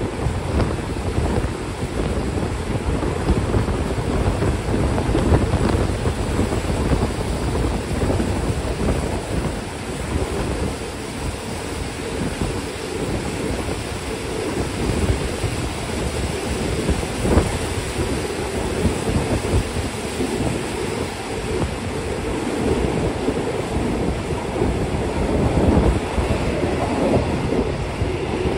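Steady rumble and rattle of a moving passenger train heard from inside the carriage, with wind noise on the microphone. One sharp click comes a little past halfway.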